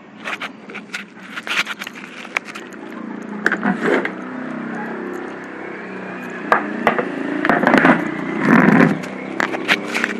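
Yamaha RX-King's two-stroke engine running while its carburettor is being set, with many sharp clicks and scrapes from the work on it.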